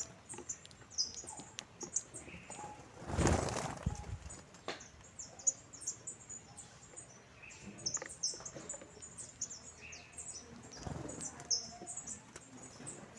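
A group of saffron finches chirping, many short high call notes overlapping. About three seconds in there is a brief, louder whoosh of noise.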